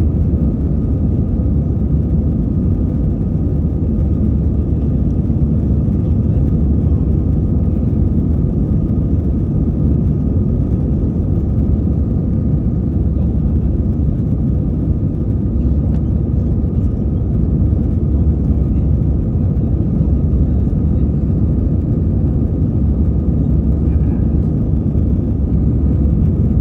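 Airbus A320 passenger-cabin noise: a steady, loud low rumble and roar of the jet engines and airflow, with a faint steady hum on top.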